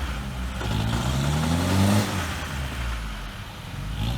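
An off-road 4x4's engine revving under load in deep mud: the revs climb for about a second, then fall back near the middle and run lower.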